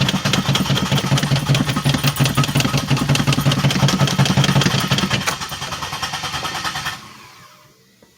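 2007 Pontiac Grand Prix GT engine being cranked on the starter in a rapid even chug without catching. This is the car's crank-no-start fault, which the owner suspects lies in the fuel pump relay or its wiring. The cranking stops suddenly about seven seconds in.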